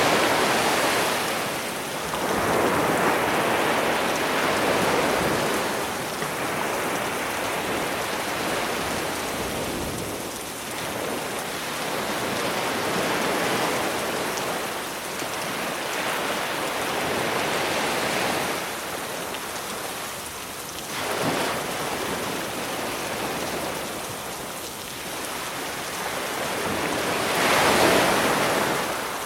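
Sea waves breaking on the shore, swelling and falling away every few seconds, under a steady hiss of falling rain. The loudest swells come at the very start and near the end.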